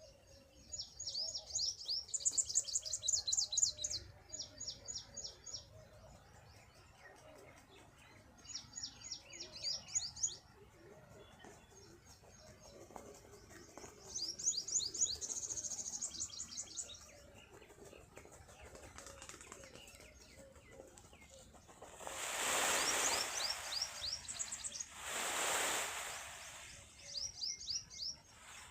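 Small birds chirping in quick, high-pitched trilled bursts that come and go every few seconds. About three quarters of the way through, two loud rushing swells of noise stand out, each a second or two long.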